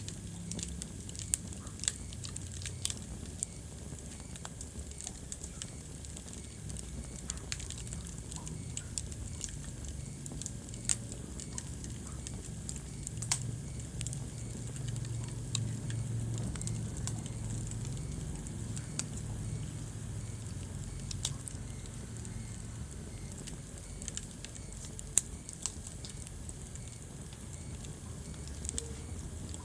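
Wood fire burning in a fireplace, crackling with frequent sharp pops, a few of them much louder, over a steady low rumble from the flames.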